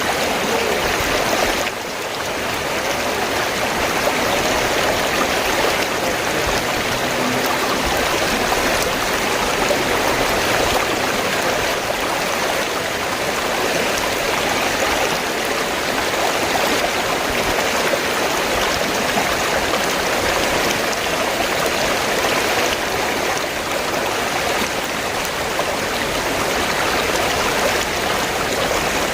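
Steady rush of flowing river water, dipping briefly in loudness about two seconds in.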